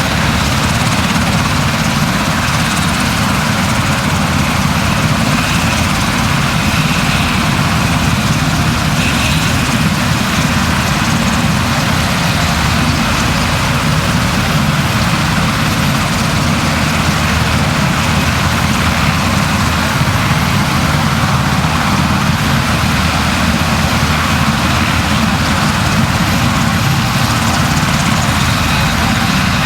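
A steady, loud engine drone that holds unchanged throughout.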